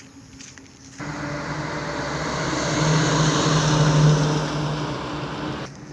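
A motor vehicle's engine and road noise, starting suddenly about a second in, growing louder to a peak and then easing as it passes, cut off abruptly near the end.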